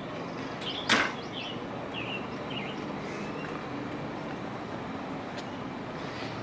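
Steady outdoor background noise, with one sharp click about a second in and a few faint short chirps soon after.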